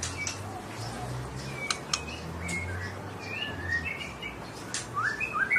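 A songbird chirping, with sharp clicks, short whistled notes and a quicker flurry of rising chirps near the end.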